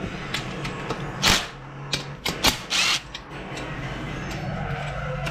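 Workshop handling noises: a few sharp knocks and short clattering scrapes through the middle, followed by a steady low hum.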